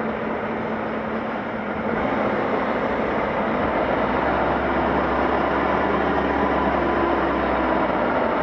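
Scania Dakar rally truck driving, a steady engine and road noise that grows louder about two seconds in, with a low drone joining around the middle.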